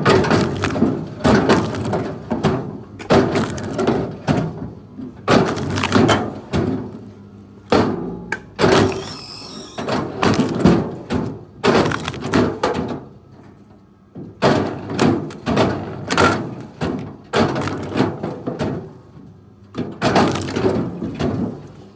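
Wood cracking and breaking in a series of irregular loud bursts, with a short lull about halfway through: branches or timber being snapped or crushed.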